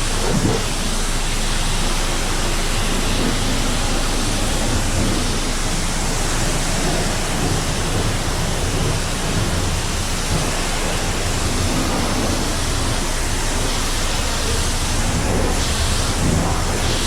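Steady, loud rushing hiss of water spraying from a car-wash pressure wand.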